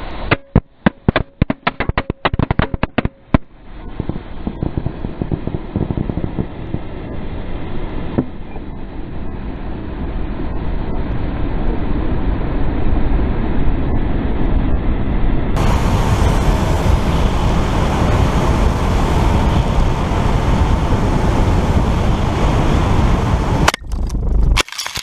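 Onboard audio from a flying girandola firework wheel. For the first three or so seconds there is a fast run of sharp firework cracks and bangs as the wheel's effects fire. After that comes a steady rushing noise, wind over the camera, building gradually as the spent wheel flies on and falls.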